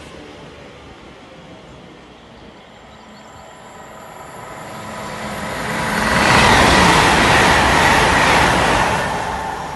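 Great Western Railway passenger train passing through the station at speed. The rush of wheels on rail builds about four seconds in, stays loud for about three seconds, then begins to fade.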